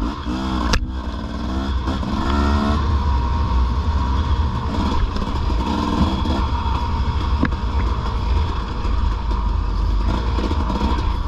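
Dirt bike engine accelerating on a trail, its pitch climbing in a few quick steps through the first three seconds, then running steadily under load. A couple of sharp knocks sound, one about a second in and one past the middle.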